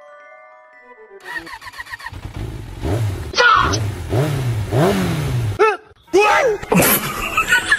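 A motorcycle-style engine revving sound, its pitch swooping up and down about five times.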